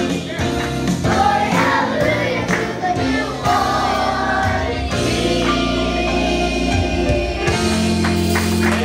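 A choir singing, the voices settling into a long held chord about seven and a half seconds in.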